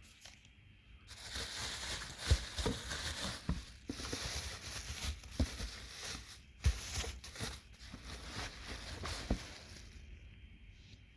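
A parcel being opened and unwrapped by hand: packaging rustling with many sharp clicks and knocks, starting about a second in and dying down near the end.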